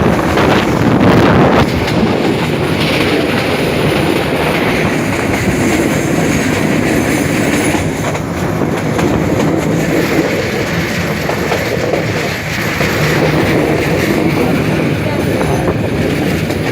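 Passenger train running along the track, a steady loud noise of wheels on rails.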